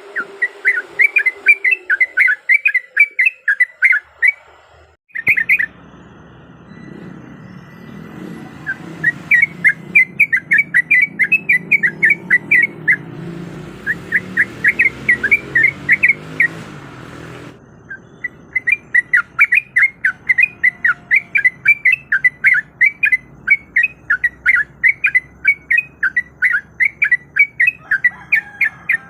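Yellow-vented bulbul (trucuk) singing long, fast runs of sharp repeated chirping notes, several a second. The song comes in three bouts, with short breaks about five seconds in and again near 17 seconds. A low background rumble runs under the middle bout.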